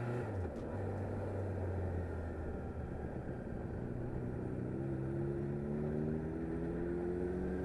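Motorcycle engine running on the road, with wind and road noise over it. The engine note dips briefly just after the start, then rises slowly through the second half.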